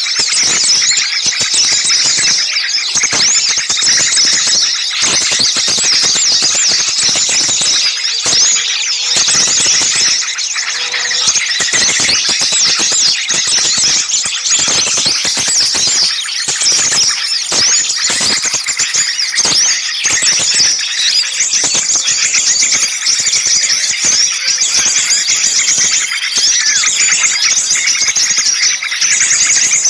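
A loud, dense chorus of many small songbirds calling at once, a continuous tangle of quick, high-pitched chirps and shrill notes. It is a noisy mixed-species lure recording, meant to draw birds in.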